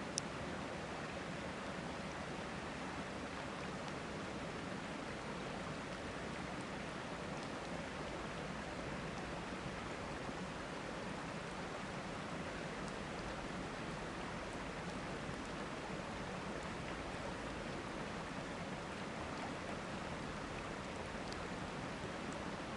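A river running steadily, with a few faint sharp pops from a campfire, the clearest just after the start.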